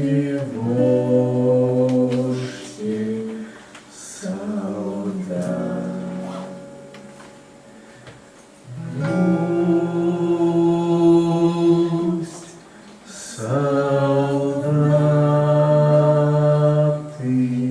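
Live singing of a slow song: voices hold long sustained notes over a musical accompaniment, with short quieter pauses between the phrases.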